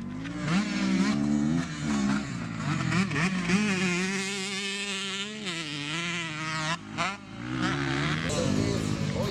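Racing motorcycle engines revving, their pitch rising and falling repeatedly as the bikes accelerate and ease off, with a short dip about seven seconds in.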